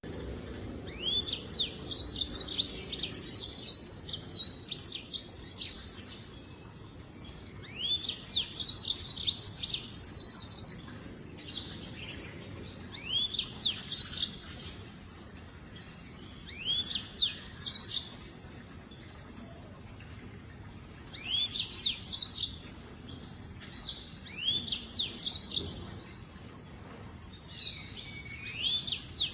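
Lemon-breasted canary singing: bouts of quick, rising-and-falling whistled notes and rapid high trills, each bout lasting a few seconds, with short pauses between.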